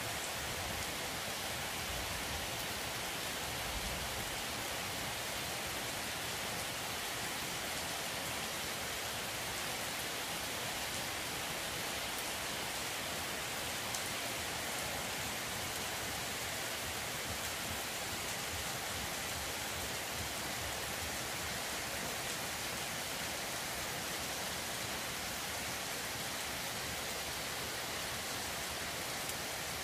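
Heavy rain falling steadily on leafy trees and a wet, puddled yard, an even hiss with no letup.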